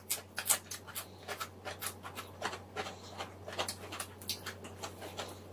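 Close-miked eating sounds: chewing with wet mouth clicks and lip smacks, a run of short, irregular smacks several a second.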